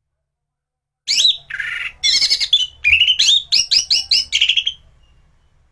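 Anis thrush singing in full song: a rapid, loud run of varied, quickly changing notes that starts about a second in and stops shortly before the end.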